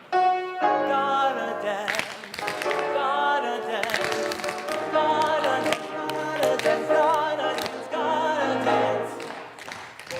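Several voices singing a show tune together with musical accompaniment, holding long notes with vibrato.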